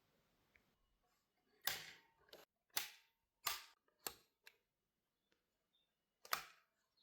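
A series of about seven short, sharp clacks, irregularly spaced, with a pause of nearly two seconds before the last one; the first and last are the loudest.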